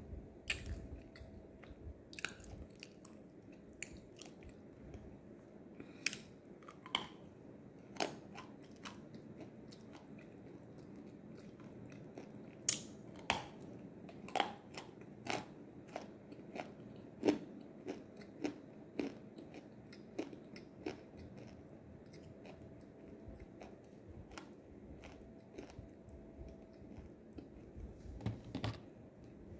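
A person chewing crunchy nzu (edible white clay chalk): irregular crisp crunches and clicks, busiest around the middle.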